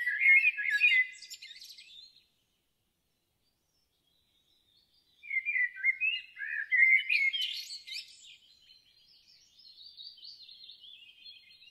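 Birds chirping, stopping about two seconds in. After about three seconds of silence the chirping starts again and goes on, fainter near the end.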